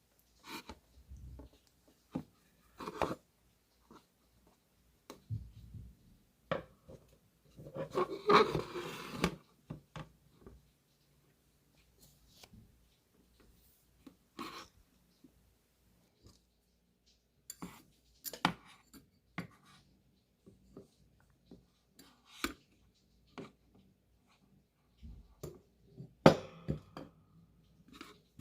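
Intermittent handling sounds of a plastic Frisbee being worked onto a wire hook: scattered light clicks and taps, a stretch of rustling and rubbing about a third of the way in, and a sharper knock near the end.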